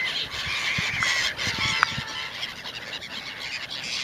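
A flock of birds calling over one another, gathered where people are feeding them. A short sharp click comes just under two seconds in.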